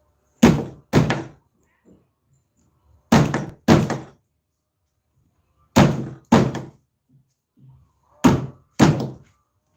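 Wood chisel being struck into a timber post, cutting out wood: heavy thuds in four pairs of two blows, about half a second apart within each pair and two and a half seconds between pairs.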